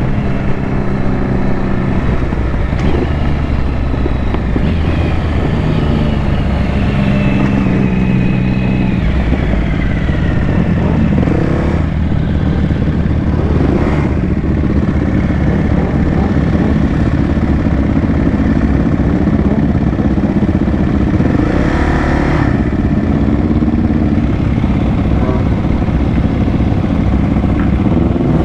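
Motorcycle engine running on the move, its pitch stepping and gliding up and down with throttle and gear changes.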